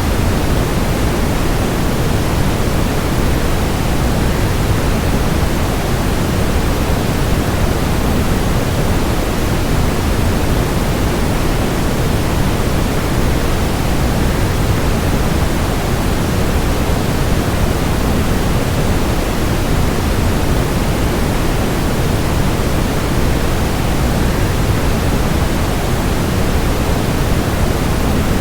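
Waterfall: a steady, unbroken rush of falling water, heavier in the low range and fading toward the highs, used as sleep noise.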